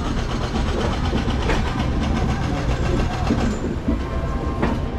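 Indian Railways sleeper coach rolling over the rails, heard from its open window: a steady rumble of wheels on track with sharp clacks as the wheels cross rail joints and points, the clearest about a second and a half in and again near the end.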